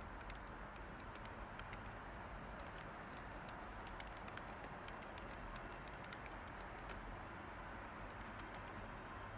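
Steady white-noise hiss with light computer-keyboard typing over it, the keys clicking irregularly.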